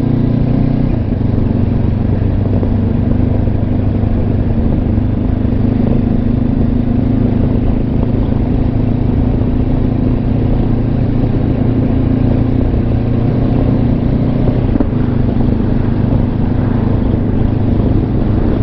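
Honda CB500X parallel-twin motorcycle engine running at a steady, even pitch while cruising, heard from a microphone inside the rider's helmet, under a steady rush of wind and road noise.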